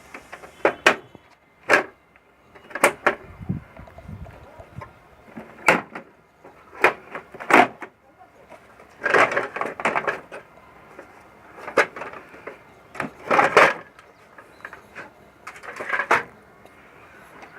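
Plastic clicks, snaps and knocks from an HP 1136 printer's housing panels being pried off: sharp clicks in small clusters every second or two, with longer rattling scrapes about nine and thirteen seconds in.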